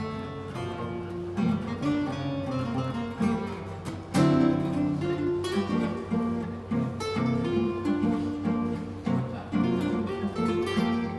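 Two acoustic guitars playing an instrumental piece, plucked melody over chords, with a loud strummed chord about four seconds in.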